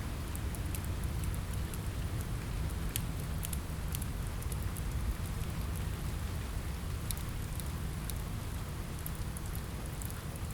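Steady rain on a window: an even hiss with a low rumble beneath it. Scattered sharp ticks and pops from a crackling wood fire come at irregular moments.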